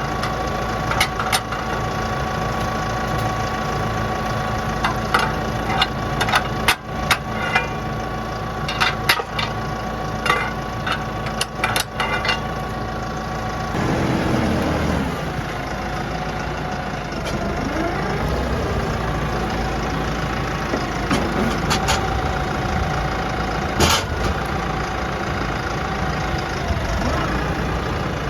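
Tractor engine running, with repeated sharp clanks and knocks over the first half; the engine note changes about 14 seconds in.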